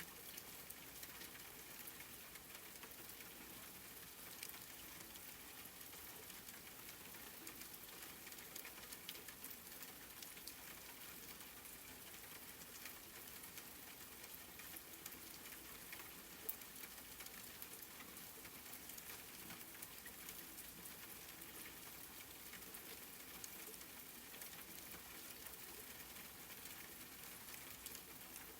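Steady, soft rain: a fine hiss of many small drops pattering on a surface, with one sharper drop tick a little past halfway.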